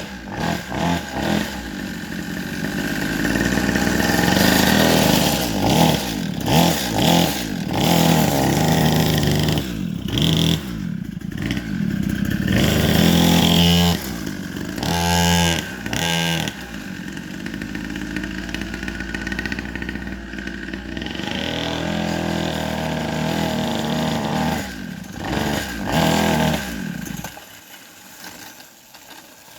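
Dirt bike engine running while being ridden, its pitch rising and falling over and over as the throttle is worked, with short dips between revs. The engine sound drops away near the end.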